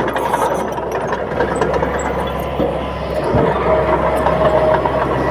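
Bulldozer's diesel engine running steadily, with scattered short clicks over the hum.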